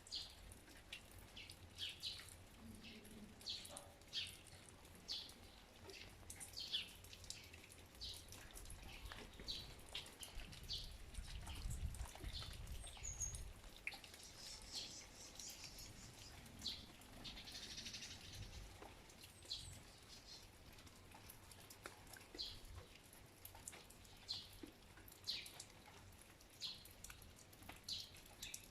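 Faint garden ambience in the rain: scattered short high chirps and drips, water dripping and small birds calling, with a brief low rumble near the middle.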